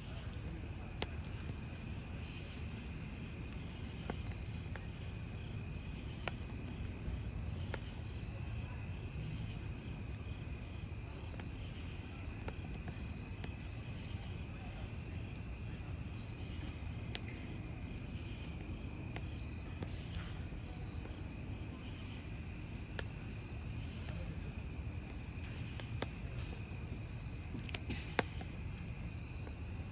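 Crickets chirping in a steady, continuous chorus over a crackling wood campfire, with a few sharp pops from the burning logs.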